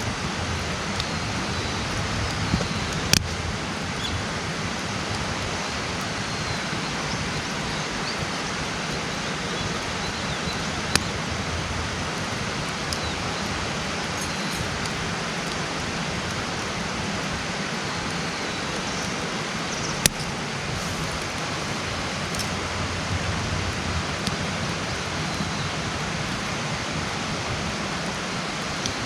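Wood campfire burning, with a sharp pop about three seconds in, another near the middle and a third about two-thirds of the way through, over a steady rushing hiss.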